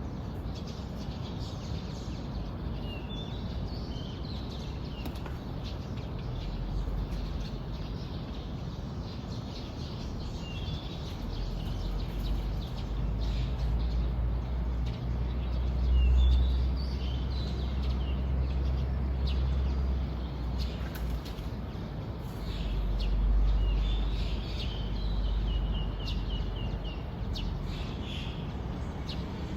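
Small birds chirping in short, high phrases scattered through, with a quick run of repeated notes near the end, over a steady low rumble that swells twice, in the middle and about three quarters through.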